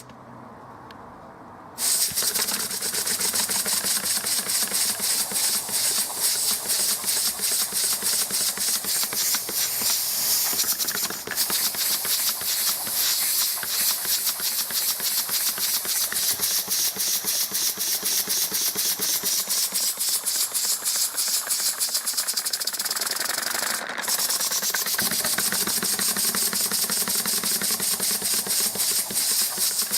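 Wooden two-cylinder, single-acting oscillating air engine running on compressed air. It makes a fast, steady chuffing of exhaust puffs over a hiss of air, starting up about two seconds in.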